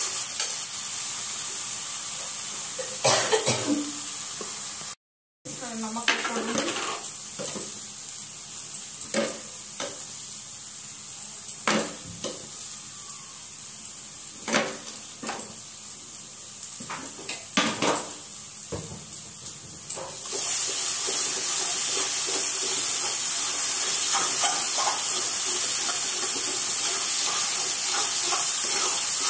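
Masala frying in a metal kadai with a steady sizzle, while a spatula scrapes and knocks against the pan as it is stirred. There is a brief cut to silence early on, and the sizzle grows louder about two-thirds of the way through.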